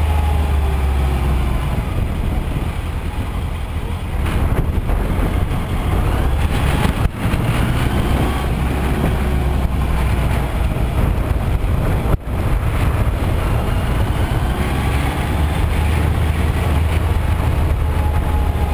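Yamaha FZS600 Fazer's inline-four engine running under way, with wind noise. The engine pitch rises and falls gently, and the sound drops out briefly twice, about seven and twelve seconds in.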